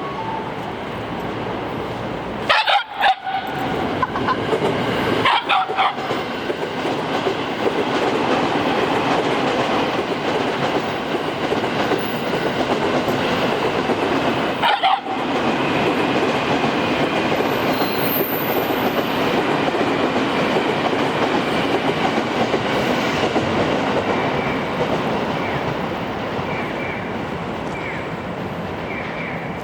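Shiba Inu barking excitedly at a passing train: a couple of barks in the first six seconds and one more about halfway, over the steady noise of the train running past on the rails, with light clicking near the end.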